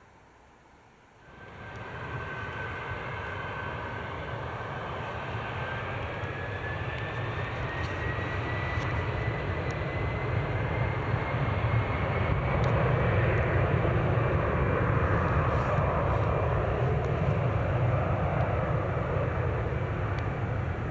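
Jet airliner engines at takeoff power, starting abruptly about a second in and growing steadily louder: a deep rumble with a thin high whine that rises slowly in pitch.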